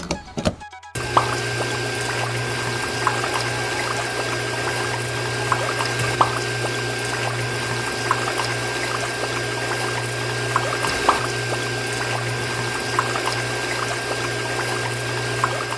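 Small electric water pump running with a steady hum while water pours and splashes, with scattered small drips. It starts abruptly about a second in.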